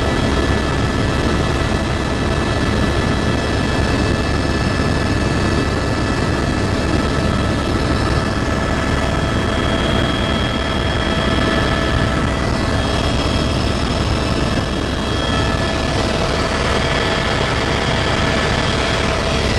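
Helicopter turbine engine and rotors running steadily, a constant loud rush of noise with a steady high whine over it.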